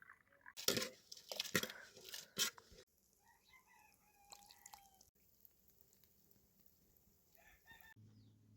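Rooster crowing loudly about half a second in, followed by fainter chicken calls.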